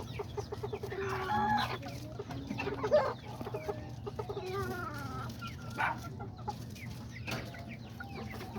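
Several chickens clucking and calling, short overlapping calls coming one after another from the birds in their pens.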